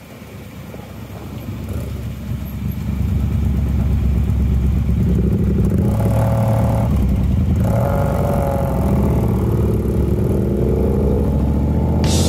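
Triumph motorcycle's parallel-twin engine accelerating under way, growing louder over the first few seconds, with the engine note climbing in pitch through the gears. Music comes in near the end.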